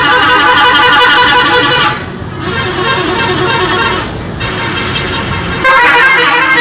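Horn sounding in long, wavering blasts: loud for the first two seconds, softer through the middle, then loud again near the end.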